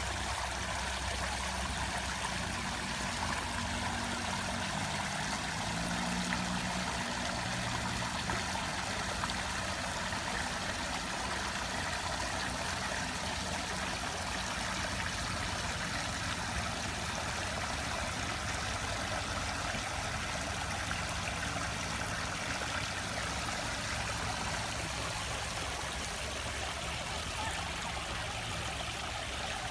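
Water running steadily, a continuous even rush with no breaks, with a faint low hum underneath.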